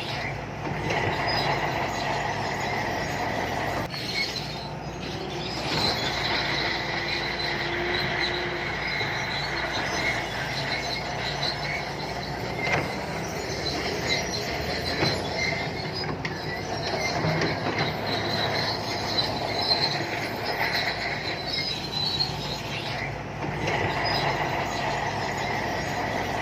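SANTUI crawler bulldozer working: its diesel engine running steadily with a high-pitched squeal from the steel tracks throughout, and an occasional sharp knock.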